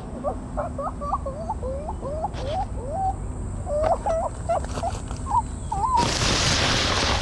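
Birds calling: a run of short whistled notes that slide up and down in pitch. About six seconds in, a loud burst of rushing noise covers them for about a second.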